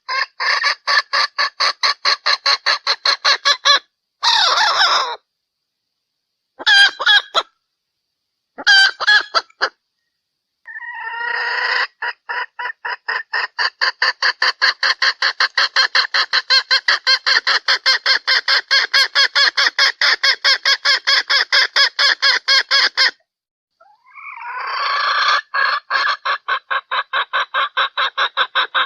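Junglefowl hen calling: long runs of rapid, evenly repeated clucks, about five a second, broken by a few short pauses, the call used to lure cocks.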